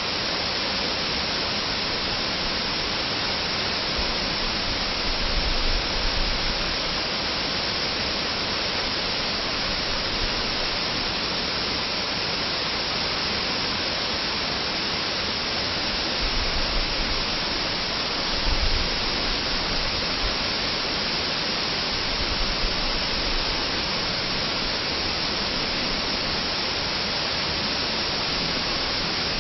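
Waterfall rushing as a steady, even roar of falling water, with a few brief low rumbles.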